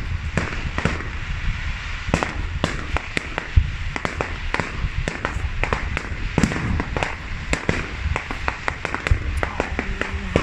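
Fireworks display heard from the crowd: a rapid, irregular run of bangs and crackles over a steady low rumble, with one heavier thump about three and a half seconds in.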